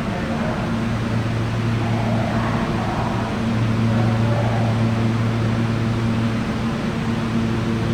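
R160 subway train humming steadily, a low electrical hum with fan noise, swelling a little in the middle.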